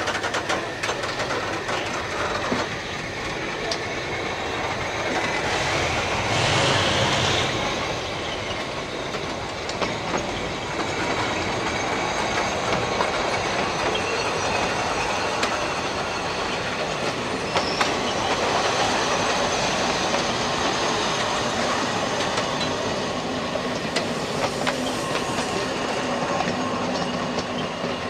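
Passenger coaches of a State Railway of Thailand train rolling slowly past, their wheels clicking over the rail joints, with a brief louder stretch of wheel squeal about six seconds in.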